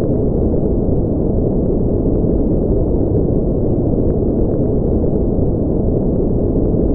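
Continuous synthetic noise track for sleep, a steady, deep, muffled hiss with most of its weight in the low end and no high-pitched hiss, unchanging throughout.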